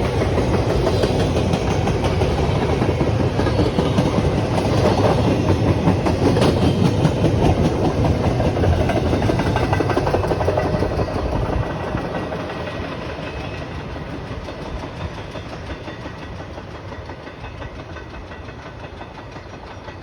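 A train passing on the rails, loud and steady at first, then fading as it moves away from about twelve seconds in.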